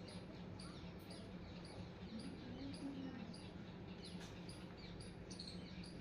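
Faint chirping of small birds: a thin, very high chirp repeating about twice a second, with lower falling chirps among it.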